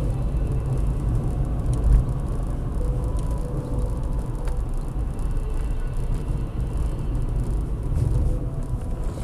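Car driving along a road: a steady low rumble of tyres and engine, with a brief louder thump about two seconds in.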